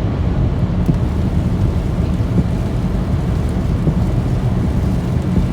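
Steady low rumble of a car driving in the rain, heard from inside the cabin.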